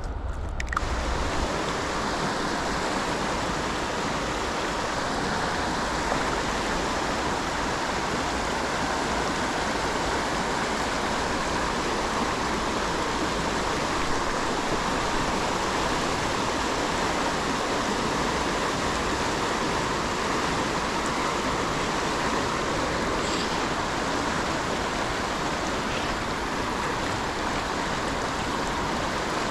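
River current rushing steadily over a riffle: an even, unbroken water noise with no changes in strength.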